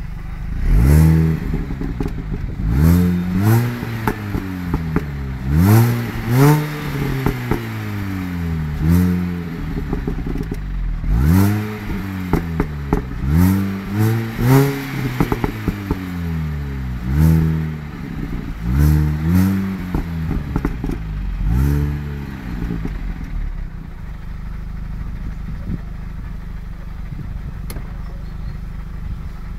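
Mini Cooper S engine through a Works sport exhaust, blipped a dozen or more times in quick revs that rise sharply and fall back, with crackles on the overrun. After about 22 seconds it settles to a steady idle.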